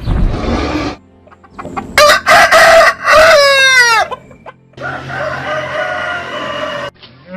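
Rooster crowing once, loud, the crow ending in a long falling note.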